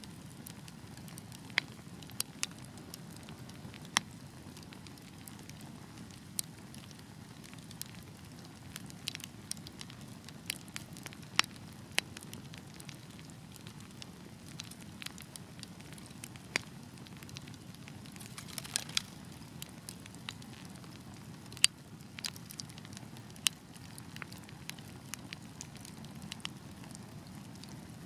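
Wood fire burning in a fireplace: a steady low rumble of the flames with irregular crackles and a few sharp, louder pops from the burning logs.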